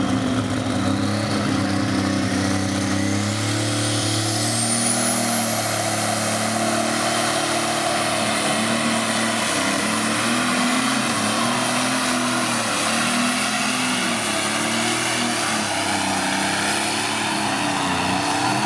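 Pulling tractor's turbocharged diesel engine running hard under load down the track, with a high turbo whine that rises over the first few seconds and then holds. The engine note wavers up and down through the second half.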